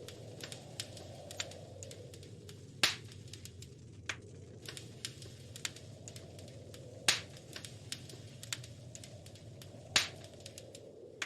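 Wood fire crackling in a fireplace: scattered light snaps and ticks, with three loud pops about three, seven and ten seconds in, over a steady low rumble.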